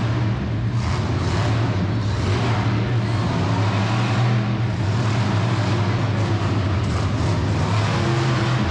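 Monster truck engine running loud with a steady low note.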